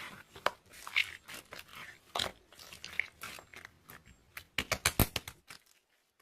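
Clear slime being squeezed and worked by hand, giving a run of short sticky clicks and pops. A quicker, louder cluster of clicks comes about four and a half to five seconds in.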